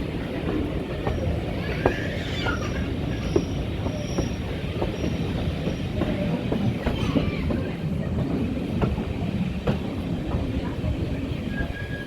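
Steam-hauled passenger train carriages running along the line: a steady rumble of wheels on rail with irregular clicks over the rail joints. A faint high wheel squeal comes in about a second in and fades a few seconds later.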